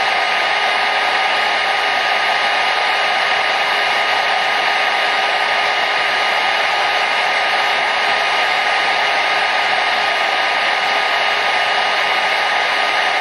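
Hair dryer running continuously: a steady, even rush of air with a faint constant motor whine.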